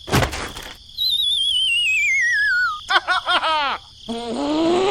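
Cartoon sound effects: a short whoosh, then a long falling wavering whistle like a slide whistle, a quick run of springy boing-like chirps, and a rising voice-like wail near the end.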